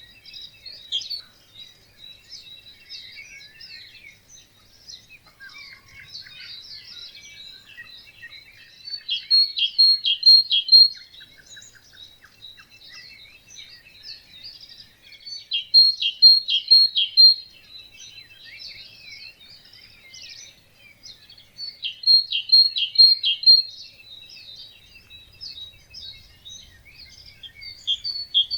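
Dawn chorus of several songbirds chirping and singing continuously, with one louder bird repeating a short song of four or five quick, evenly spaced notes about every six seconds.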